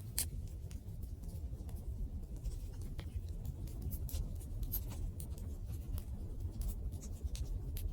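Wood campfire crackling: irregular sharp pops and snaps of burning wood, several a second, over a low steady rumble.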